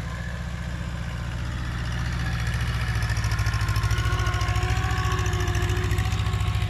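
Kubota mini tractor's diesel engine running steadily with an even low pulsing, getting louder about two seconds in.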